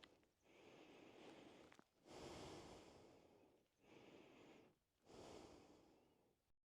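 Near silence, with a few faint breaths close to the microphone, about one every second or so.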